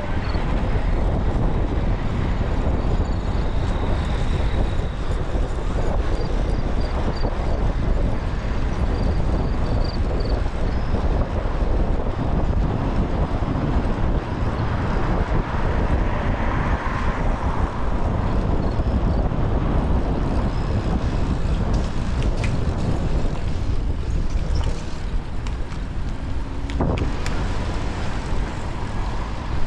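Steady wind rumble on a GoPro's microphone while riding a bicycle, with city traffic noise underneath. There are a few short sharp clicks in the last third.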